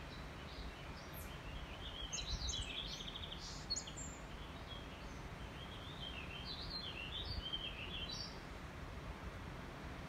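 A songbird singing two spells of quick, varied chirping phrases, one about two seconds in with a fast trill and another around seven seconds. Under it runs a steady low rumble of background noise.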